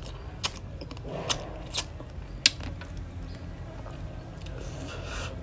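Close-up chewing of raw crab, with several sharp crunching cracks of shell, the loudest about two and a half seconds in.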